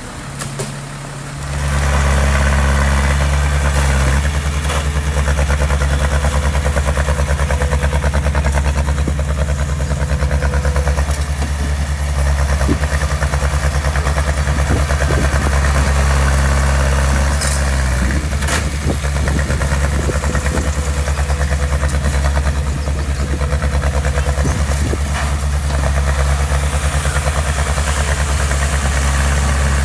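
Diesel engine of a heavy construction machine running steadily at a constant speed, becoming much louder about a second and a half in.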